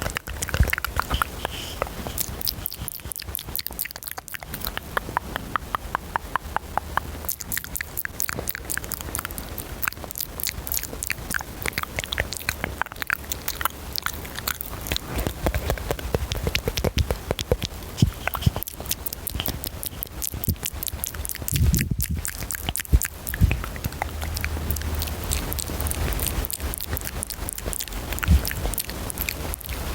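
Fast ASMR mouth sounds close to the microphone: rapid wet clicks and smacks of tongue and lips, in quick runs, with breathing audible between them.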